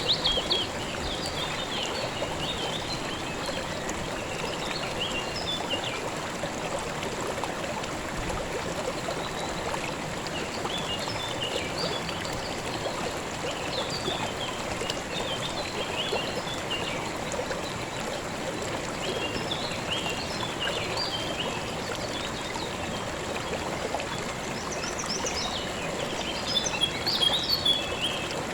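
A river flowing steadily, a continuous rushing and trickling of water. Small birds chirp intermittently over it, with a louder run of birdsong near the end.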